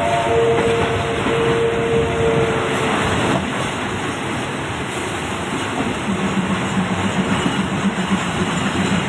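Train running on the rails with a steady rumble and rattle. For the first three seconds several steady tones sound together as a held chord, and about six seconds in a low steady drone comes in.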